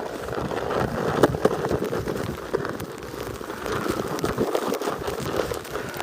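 Snow shovel scraping and crunching through snow on a sidewalk, a continuous gritty noise with a sharp scrape or knock about a second in.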